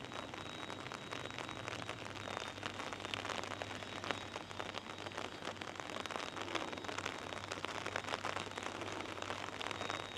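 Monsoon rain falling steadily, with many close drops pattering irregularly.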